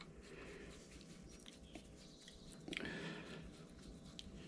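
Faint small clicks and scraping of a metal fitting being turned into its threads by hand, over a low steady hum.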